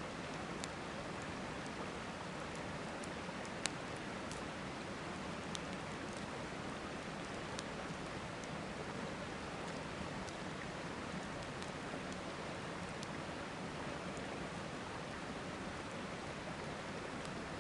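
Wood campfire crackling with scattered sharp pops, one louder about four seconds in, over the steady rush of a river.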